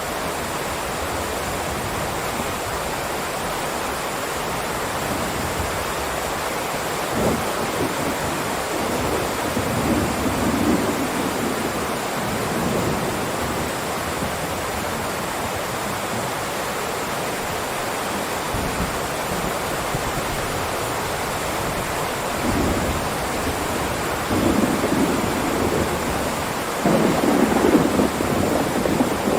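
Heavy rain falling in a steady downpour, with low rumbling swells rising several times, the loudest near the end.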